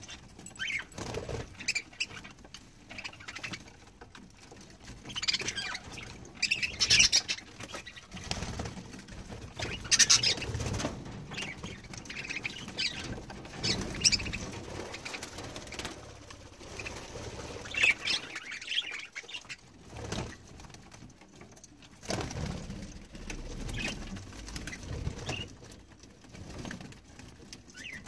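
Budgerigars bathing, wings fluttering and flapping in irregular bursts, with short chirps among them.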